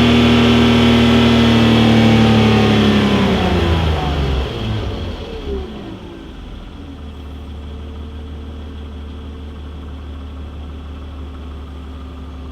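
1994 BMW E36 320i's inline-six engine held at raised revs, then the revs fall away over about three seconds and it settles into a steady idle. The owner thinks it may need a valve adjustment.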